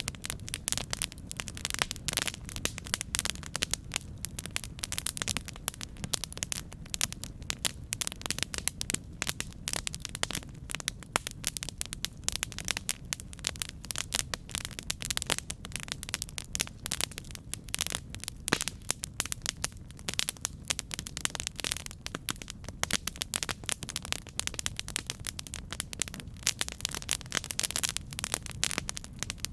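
Campfire burning, with a dense, irregular crackle and popping of wood over a low rumble of flames.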